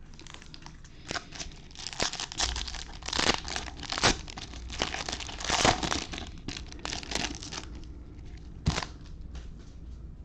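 A foil baseball card pack wrapper being torn open and crinkled by hand, a dense run of crackling that lasts several seconds and then thins out, with one sharp click near the end.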